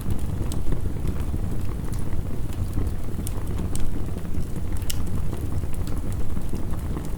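Wood fire crackling with sharp, irregular pops, over a steady low rumble of heavy rain.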